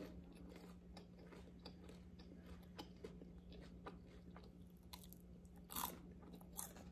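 Faint chewing of a crunchy fried egg roll with the mouth closed: small scattered crunches and mouth clicks, with one louder crunch about six seconds in.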